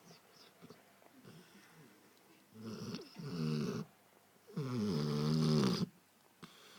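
Sleeping dog snoring: soft breaths at first, then two long, loud pitched snores of about a second each, one near the middle and one shortly after.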